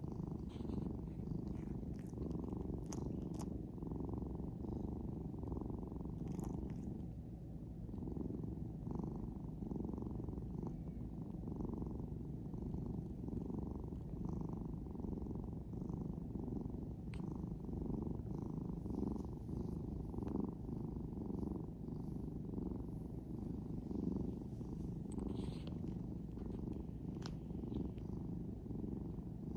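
Domestic cat purring steadily at close range, drowsy after being woken.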